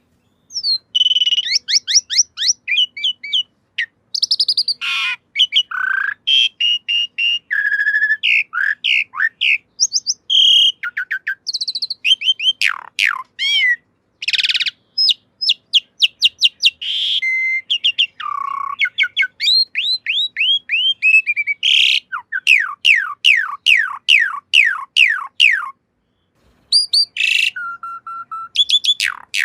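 Pied starling (jalak suren) singing a long, varied song of whistles and chirps mixed with fast runs of repeated sweeping notes. There is a short break about three-quarters of the way through.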